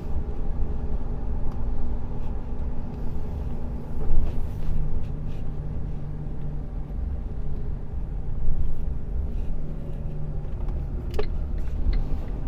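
Truck engine running steadily while driving, heard from inside the cab as a low drone. A sharp click about eleven seconds in is followed by a few light ticks.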